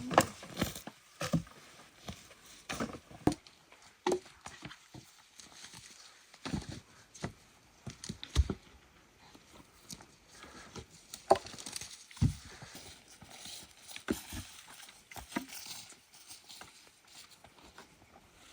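Irregular knocks and clatters, a few spread over each couple of seconds with quiet gaps between, the loudest about three seconds in and again past the middle.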